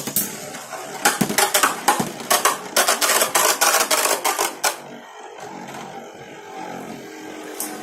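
Two Beyblade spinning tops, L Drago Destructor F:S against a Lightning L Drago, clashing: a rapid run of clicks and clacks for about four and a half seconds, then a quieter, steady whirring as they spin on.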